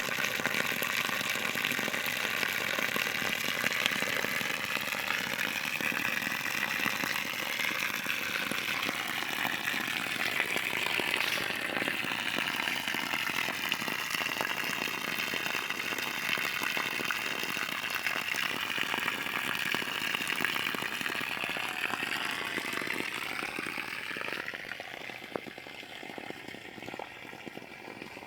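Water running steadily out of a newly drilled well's discharge, flushed to clear the borehole after drilling; it fades near the end.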